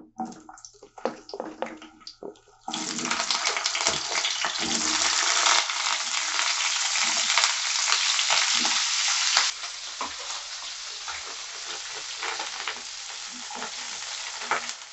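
Cauliflower florets sizzling in hot oil in a non-stick kadhai. A few light taps come first as the pieces are laid in. A loud steady sizzle then starts suddenly about three seconds in and falls to a quieter sizzle about halfway through, with a wooden spatula stirring near the end.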